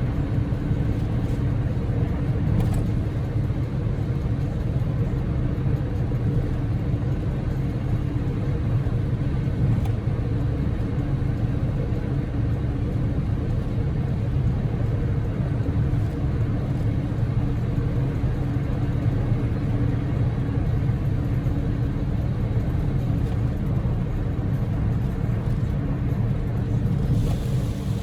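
Steady in-cabin drone of a Daihatsu Move (L150S) on the move: tyre and road noise with the low running sound of its 660 cc three-cylinder EF-VE engine, an even low rumble with a faint hum over it.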